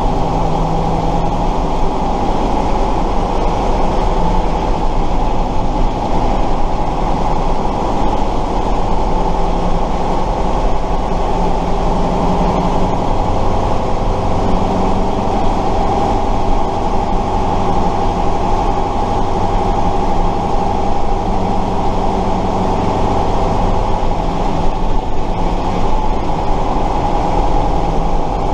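1968 Tatra 138 fire truck's air-cooled V8 diesel running steadily while driving, heard from on board.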